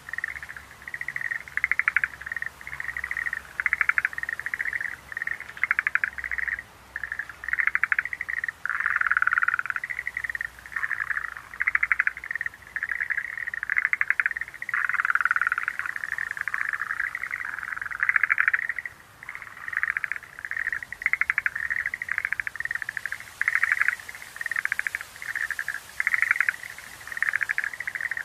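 Schlegel's green tree frogs calling in chorus: rapid rattling trills, each about a second long, overlapping one after another without pause.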